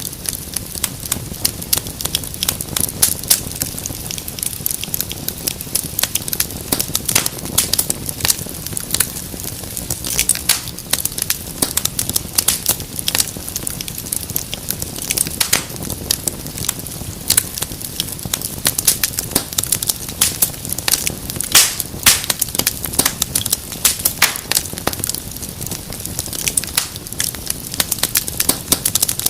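Wood fire crackling and popping in a fireplace: a dense, irregular run of sharp snaps over a low steady rumble of burning.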